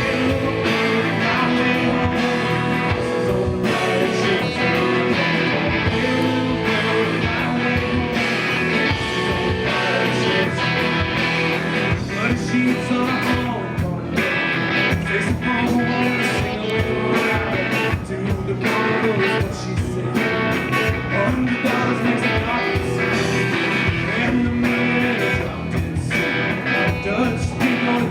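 Rock band playing live, electric guitars and drums with some singing, recorded from the audience in a club.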